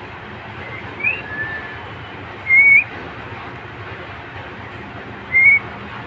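A bird giving short, high whistled calls, a few seconds apart, the loudest about halfway through, over a steady rushing background noise.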